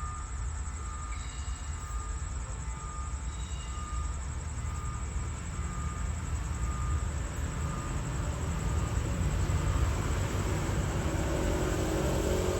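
Train rumbling as it runs, growing louder toward the end. A faint high beep repeats about one and a half times a second over the first half.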